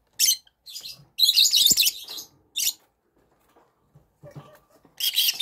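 Young chickens chirping in short high-pitched bursts, with a longer run of chirps about a second in and another burst near the end.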